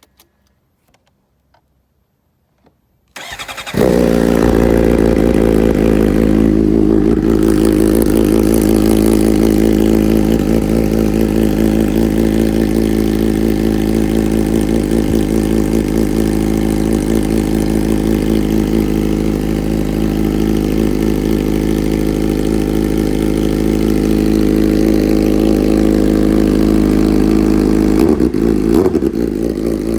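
Suzuki GSX-R600's inline-four being cold-started through an M4 GP exhaust with the catalytic converter removed: after a few seconds of quiet, a brief crank about three seconds in catches almost at once. It then settles into a loud, steady idle, and the note wavers briefly near the end.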